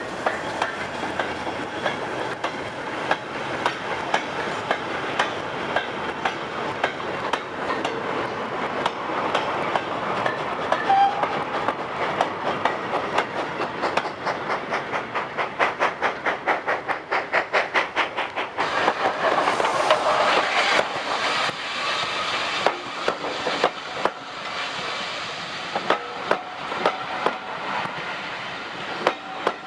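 A train running along the track, its wheels clicking over the rail joints in a rhythmic clickety-clack over a steady rumble. The clicks come in a fast, even run in the middle, then grow sparser.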